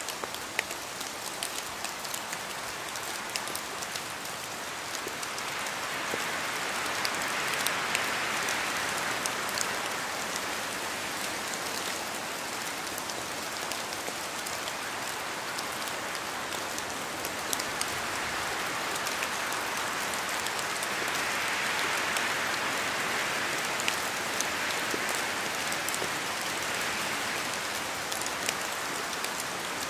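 Steady rain falling, with scattered sharp drop ticks over an even hiss. It swells louder twice, around eight seconds in and again around twenty-two seconds in.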